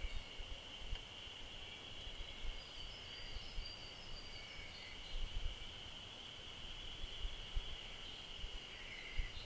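Forest ambience: a steady, high-pitched insect drone, with a few short bird chirps and low rumbling from wind on the microphone.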